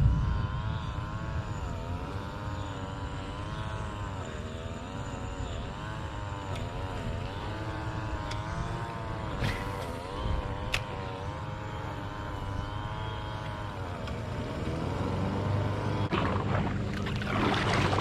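A distant engine drones steadily with a wavering pitch. There are two sharp clicks near the middle, and a rushing noise builds near the end.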